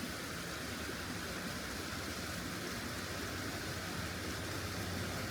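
Steady vehicle running noise: a low hum under an even hiss.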